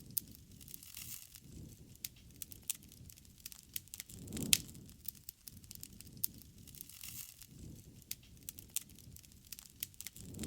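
Wood fire crackling: irregular sharp snaps and pops over a soft low rush of flame, the loudest snap about four and a half seconds in.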